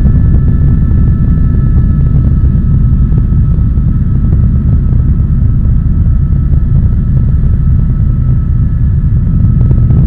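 Helicopter in flight, heard from inside the cabin: a loud, steady low rotor and engine rumble with two thin, steady high-pitched whines over it.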